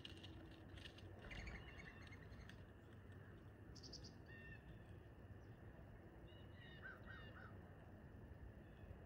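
Faint outdoor bird calls: a few short chirps and calls scattered through, a quick series about a second and a half in and a small group near the end, over steady low background noise.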